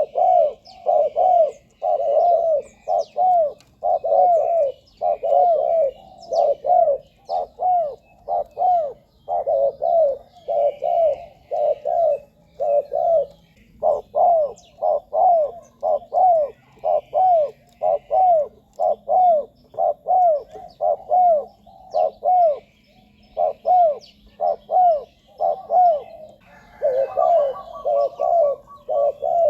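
Spotted dove cooing over and over: a dense series of short, low, arching coos, about two a second, broken by brief pauses, as used to lure wild doves. Faint chirps of small birds sound above, and a quicker, higher series of notes joins near the end.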